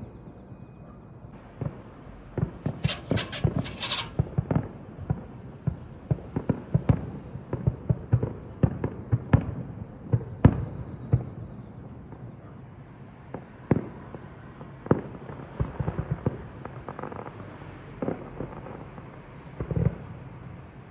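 Fireworks going off nearby: a long run of irregular sharp bangs and pops, with a brief burst of high crackling about three seconds in.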